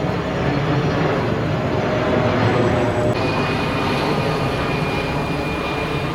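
Airliner engines running loud and steady: a wide rushing roar with a thin whine over it, and a higher steady whine that comes in about three seconds in.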